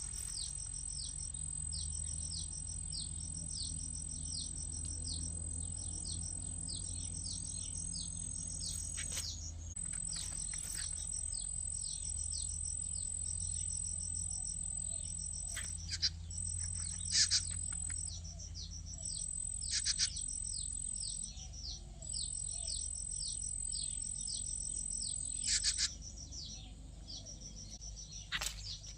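A bird calling over and over in short, high, downward-falling chirps, about two a second, with a few louder sharp calls now and then. A steady high insect drone runs underneath and breaks off several times.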